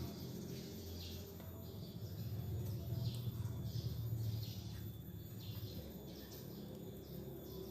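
A bird calling over and over in short falling chirps, about two a second, over a steady low rumble.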